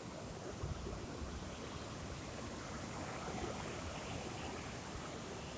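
Low, steady wash of sea surf.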